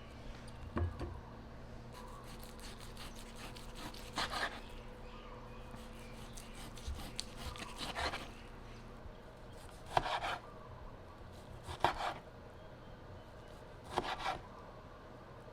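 Knife working on a wooden cutting board: short rasping cuts, about one every two seconds, six in all.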